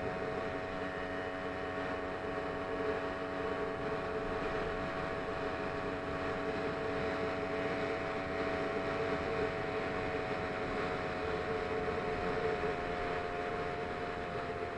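Small engine of a motorized bicycle running steadily, a constant droning hum that holds nearly the same pitch throughout.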